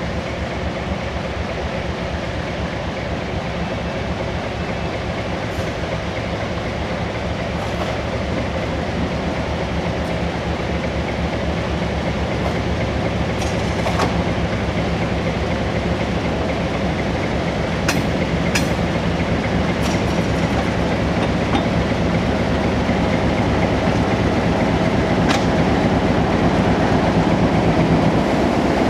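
Alco diesel locomotive's engine running as it and its ballast hopper cars roll slowly past, wheels rumbling over the rails. A few sharp metallic clicks and squeaks come through, and the sound grows gradually louder.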